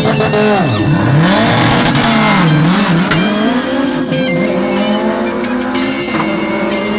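Car engine revving up and down several times, with tire squeal in the first few seconds, then running more steadily, under background music.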